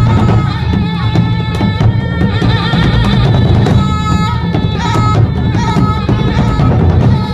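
Thai traditional ensemble playing a Nang Yai shadow-puppet set: a reedy wind melody over loud, busy drumming.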